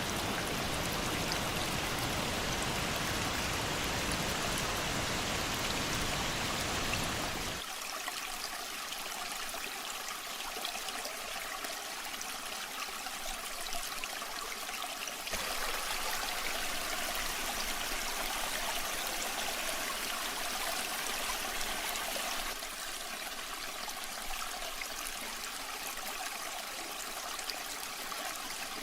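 Rushing water of a waterfall, a steady even wash of noise. Its character changes abruptly three times, about a third of the way in, near the middle and about three quarters through, with the deep rumble dropping out after the first change.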